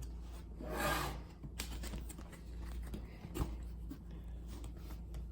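A cardboard box being handled and turned over, rubbing and scraping, with a light knock about three and a half seconds in, over a steady low hum.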